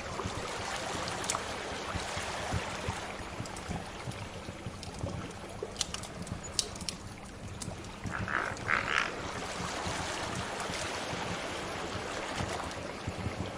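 Crackling wood fire with scattered sharp pops over a steady wash of sea waves. About eight seconds in, two short higher-pitched sounds stand out briefly.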